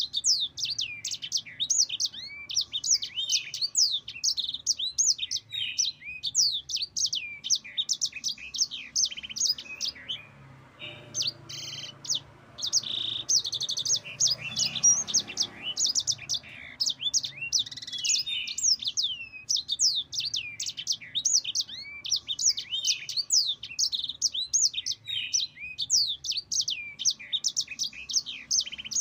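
Yellow-fronted canary (sanger, Mozambique canary) singing a long, fast rolling song of high chirps and trills. About a third of the way in the rolling song breaks briefly for a few buzzier notes, then resumes.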